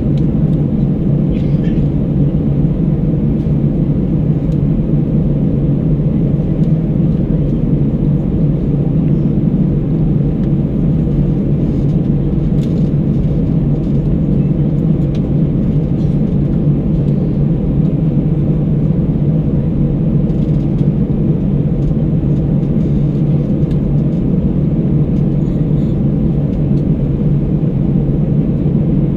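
Airbus A319 cabin noise from a window seat: the jet engines and airflow make a steady, loud, low rumble that does not change.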